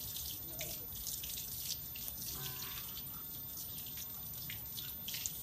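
Water from a shower hose spraying and splashing in uneven gusts as a dog is showered.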